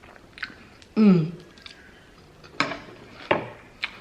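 A person eating close to the microphone. About a second in there is a short falling hum-like sound from the eater, the loudest moment, and later three sharp clicks of chewing or utensils.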